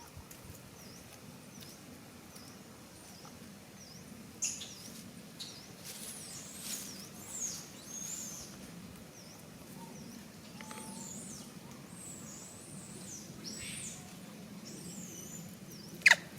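High-pitched animal chirps and short calls that sweep downward in pitch, over a low background hum, with one sharp click near the end.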